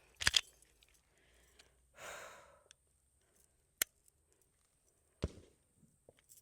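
Sharp metallic clicks and a knock from a Mossberg MC2C 9mm pistol being handled, with a breathy exhale about two seconds in.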